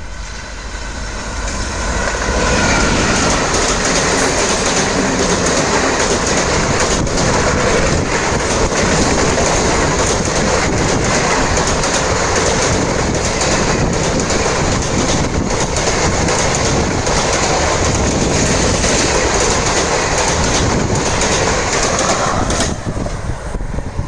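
An express passenger train hauled by an electric locomotive passes close at speed. There is a loud, steady rush of wheels on rail and coaches going by, mixed with wind noise on the microphone. It builds over the first couple of seconds and eases off near the end.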